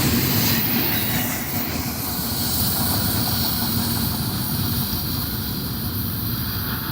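Union Pacific freight train's cars rolling past with wheel squeal from the rails and a low steady rumble. The high squeal fades within the first couple of seconds, and the whole sound slowly dies away.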